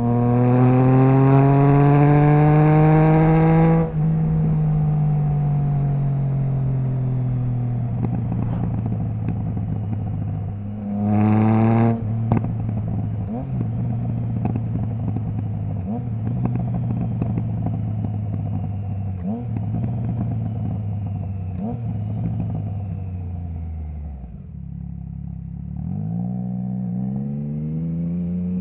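Triumph Trident 660's inline three-cylinder engine through a Zard stainless full exhaust with the baffle removed, pulling hard with rising revs, then cut off sharply after about four seconds. Revs then fall away with crackles and pops from the exhaust on the overrun, a short sharp rev about halfway through, a dip to low revs, and a fresh pull with rising revs near the end.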